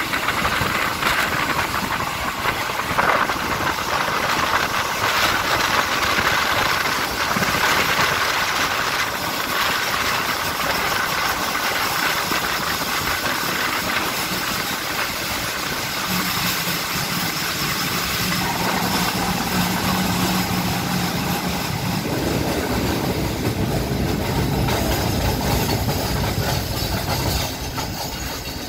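Passenger train running on the rails, heard from an open carriage window: a steady rumble and hiss of wheels and running gear. About halfway in a low steady hum comes in as the train slows alongside a station platform.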